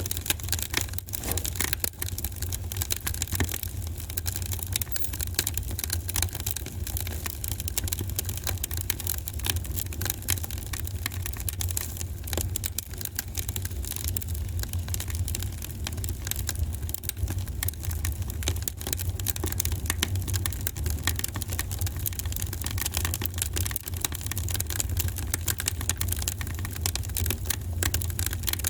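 Wood fire crackling in a fireplace, a dense run of small pops and snaps over a steady low rumble.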